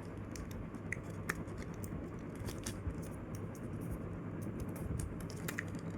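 A sheet of paper being folded and creased by hand: faint scattered crinkles, scratches and scrapes over a steady low hum.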